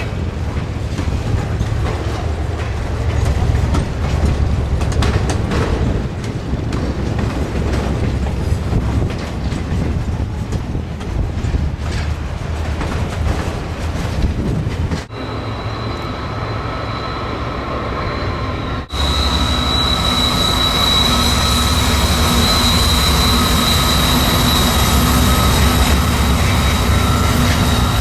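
A train passing close by: a steady low rumble of locomotives and steel wheels rolling on rail. After two abrupt cuts about halfway through, a steady high-pitched squeal of wheels on the rail runs over the rumble.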